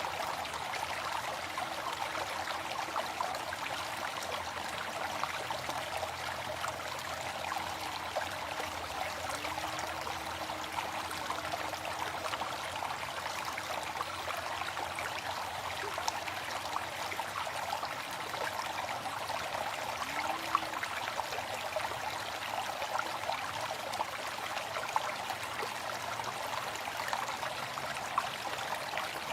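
Steady rush of water falling from a waterfall, an even, unbroken sound with no change in level.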